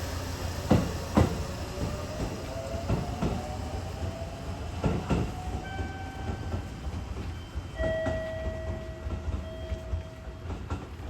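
Electric train running and picking up speed, its motor whine rising in pitch over a steady rumble. The wheels clack over rail joints in pairs about every two seconds.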